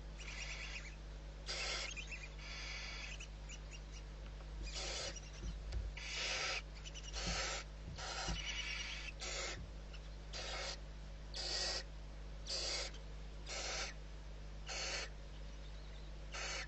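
Barn owl giving short, harsh hissing calls, repeated roughly once a second with a brief pause partway through.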